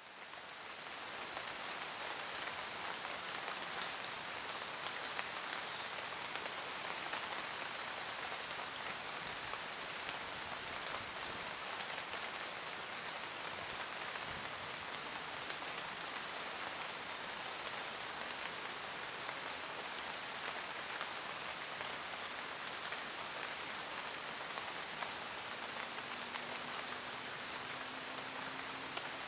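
Steady forest rain: an even hiss of many drops falling, with single drops ticking through it. It fades in over the first couple of seconds.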